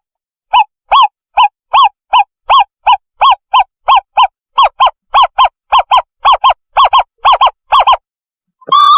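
Owlet call played as a decoy to lure birds. It is a loud series of short pitched notes, about two to three a second, that quicken and fall into pairs. After a short break, a wavering trill begins near the end.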